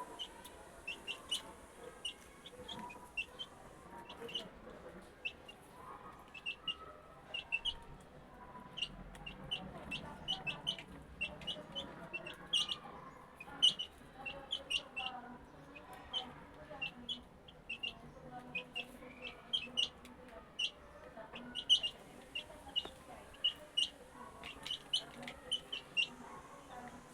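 A group of young chicks, about three weeks old, peeping: many short, high-pitched cheeps, several a second, overlapping without a steady rhythm.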